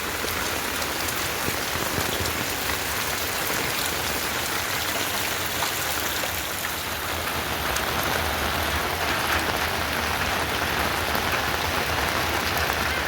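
Heavy rain falling steadily: an even hiss with scattered sharp drop hits.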